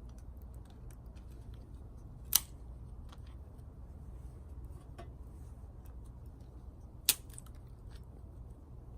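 Small twig fire in a stainless mini fire stand, crackling with scattered faint pops and two sharp, loud snaps, one about two seconds in and one about seven seconds in, over a steady low rumble.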